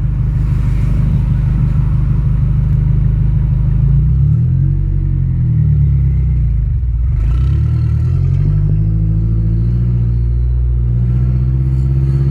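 Mazdaspeed6's turbocharged 2.3-litre four-cylinder with an open downpipe, running loud while driving. The engine note holds steady for the first few seconds, then rises and falls a couple of times, and climbs steadily near the end as the car pulls away.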